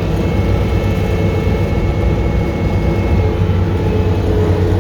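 Dually pickup truck's engine running steadily under load while towing a stuck machine out of the snow, a loud low drone.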